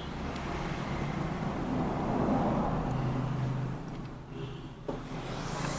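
A motor vehicle passing by: a rumbling noise that swells to a peak a couple of seconds in and then fades, with a single click near the end.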